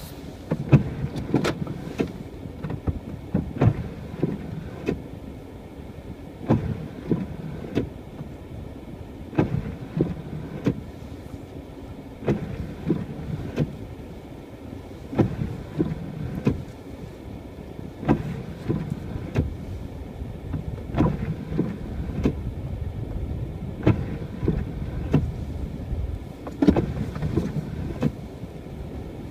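Car driving on an unplowed, snow-covered road, heard from inside: a steady low rumble of engine and tyres, with frequent irregular knocks and thumps.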